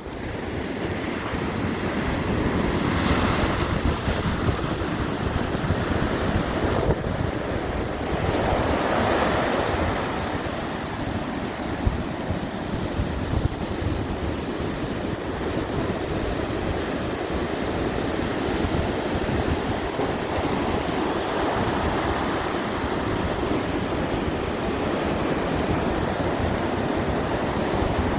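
Ocean waves breaking and washing ashore, with wind buffeting the microphone. The surf swells louder about 3 and 9 seconds in, then settles into a steady wash.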